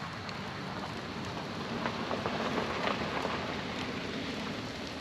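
Campfire crackling: a steady hiss with scattered small pops, busier in the middle.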